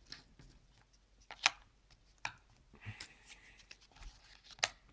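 Cardboard jigsaw puzzle pieces being handled and fitted into place: three sharp clicks and taps, with light rustling between them.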